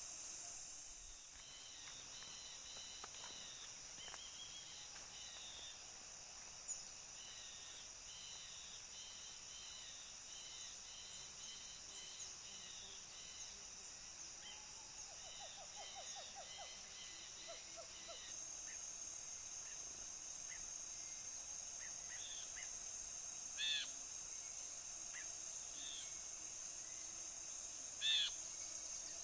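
Bulbuls (brinji) calling: a long run of short, quickly repeated chirps, then a few louder separate calls near the end, over a steady high insect drone.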